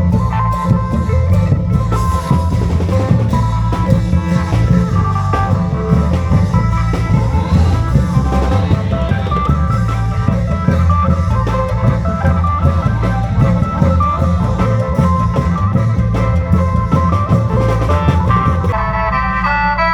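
Isan klong yao long-drum ensemble music: a busy, steady drum rhythm with a heavy low end under a melodic line. Near the end the drumming thins and held, organ-like chords come in.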